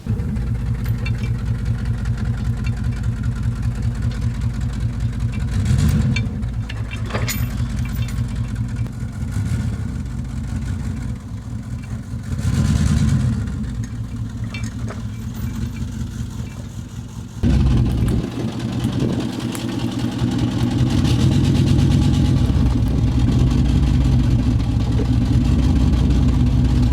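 A vehicle engine running steadily at low speed, revving up briefly twice, then louder and steadier after a sudden step about two-thirds of the way through.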